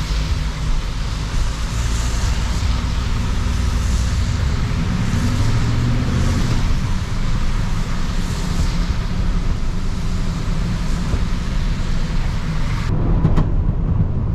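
A road vehicle driving, heard from inside: steady engine hum and road noise, with the engine's pitch climbing for a couple of seconds about five seconds in.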